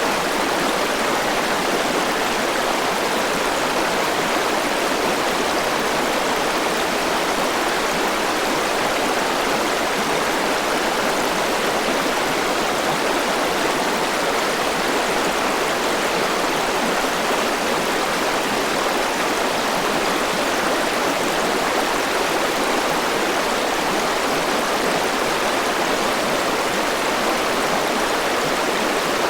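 A forest river rushing steadily over rocks, a continuous even rush of water with no change.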